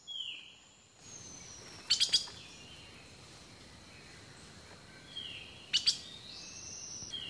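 Woodland birds calling: clear whistled notes, some holding steady and some gliding up or down, with sharp quick chips in pairs or threes every few seconds.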